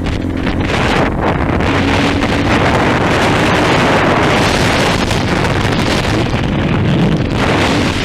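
Wind rushing over the microphone on a moving 230 trail motorcycle, with the engine running underneath it.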